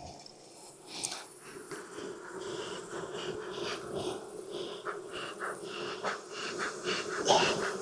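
Honeybees buzzing steadily as a hum around the opened hive, with short scrapes and clicks mixed in and a louder scrape near the end.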